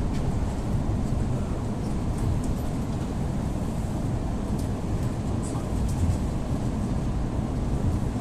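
EP2D electric multiple unit running at speed, heard from inside the carriage: a steady low rumble of wheels and running gear, with a few faint clicks.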